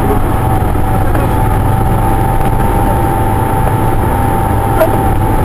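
Car engine and road noise inside the cabin while driving, a steady low rumble with a steady whine over it.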